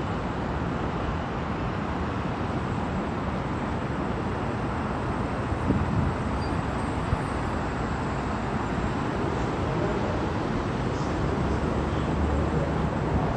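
New York City subway train running, a steady rumble and rush of wheels on track, with a few brief knocks about six and seven seconds in.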